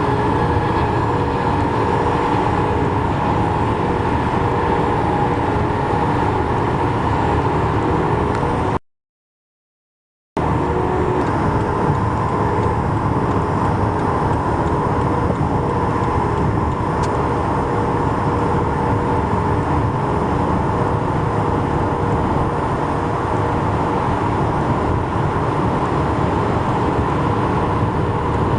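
Steady highway traffic noise, an even rushing hum with no single vehicle pass standing out. It drops out to silence for about a second and a half a little under nine seconds in, then resumes unchanged.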